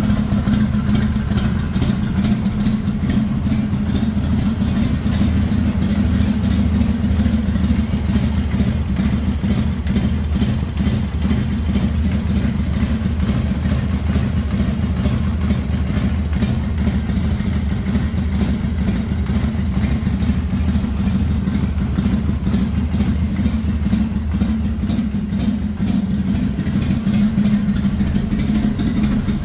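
Harley-Davidson XL883L Sportster's air-cooled 883 cc V-twin engine idling steadily.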